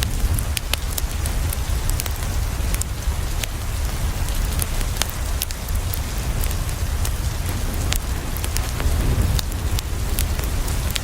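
Steady rain on a window with a low rumble underneath, mixed with a wood fire crackling in irregular sharp pops.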